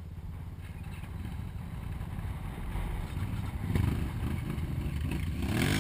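ATV engine running and getting louder, revving up with a rising pitch near the end.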